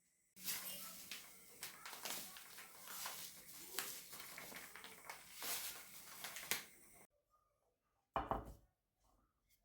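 Kitchen handling sounds during baking: continuous rustling and clatter with many small knocks, cutting off abruptly about seven seconds in, then a single thump.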